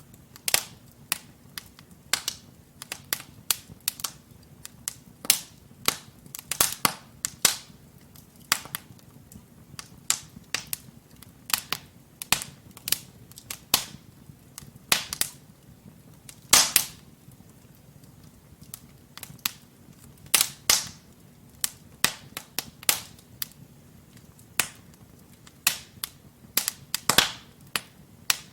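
Wood fire crackling in a fireplace: burning logs give off irregular sharp pops and snaps, a few of them loud, over a faint steady low rumble of the flames.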